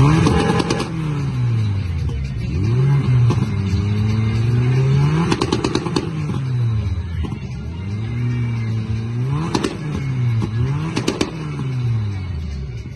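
Car engine being revved over and over, its pitch climbing and falling back every second or two, with a few sharp cracks about halfway through and near the end.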